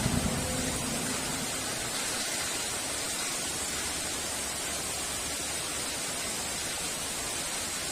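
Heavy rain falling in a steady, even hiss, with the tail of a thunder rumble dying away in the first second.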